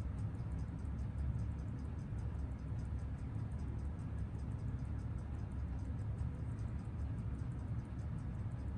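Seiko 6139 automatic chronograph movement ticking fast and evenly on a timegrapher, its beat at 21,600 per hour, six ticks a second, over a steady low hum. The movement is freshly serviced with a new center wheel and is still running in.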